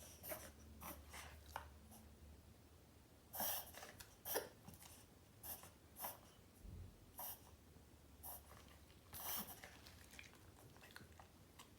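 A small Morkie (Maltese–Yorkshire terrier mix) dog in a reverse sneezing attack: faint, short, sharp breaths drawn in through the nose, coming irregularly about once a second, the loudest two about three and a half and four and a half seconds in. Reverse sneezing is common in Maltese mixes, and this dog has been checked by a vet and found to be ok.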